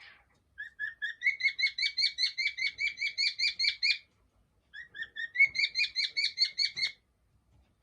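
Cockatiel chirping in a fast, even series of short chirps, about five a second. It comes in two runs with a brief pause between them and stops with a single small click near the end.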